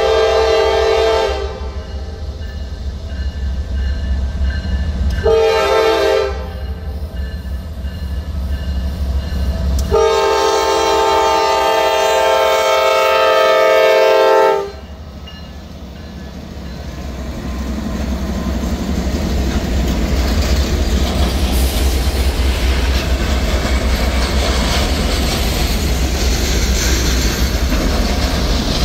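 Norfolk Southern freight locomotive's air horn sounding at a grade crossing: a long blast ending about a second in, a short blast around five seconds, then a long blast from about ten to fourteen seconds, over the low steady running of the diesel locomotives. After the horn stops, the freight cars roll past with steady clattering wheels that grow louder and hold.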